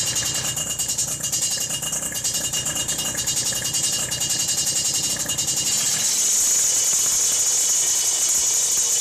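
Kawasaki Ninja 150 RR two-stroke engine running through its exhaust, with a crisp note. There is a fast pulsing for the first six seconds, then the low end drops away and a steadier high hiss takes over.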